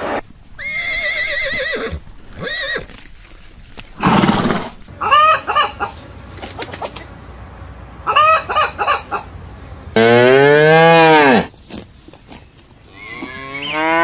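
A run of animal calls: a cat's meow near the start, hens clucking in short bursts in the middle, then cattle mooing loudly, one long moo about ten seconds in and another starting near the end.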